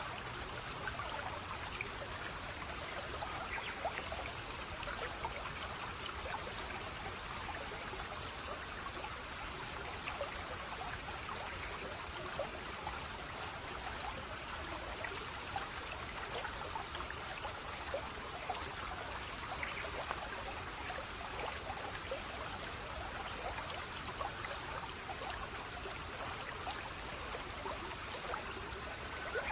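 Running water flowing steadily, with many small splashes and trickles throughout.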